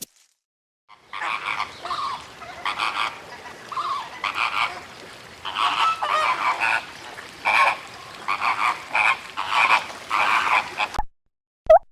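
Animal calls: many short calls repeated in quick succession, some close together, stopping abruptly near the end.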